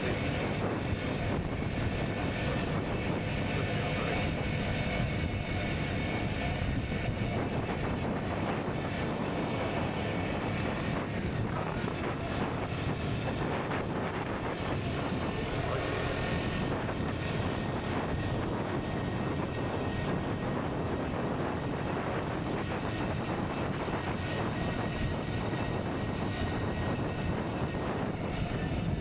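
KTM Duke 125's single-cylinder engine running steadily through an Akrapovic exhaust while the bike is ridden, with wind noise on the microphone.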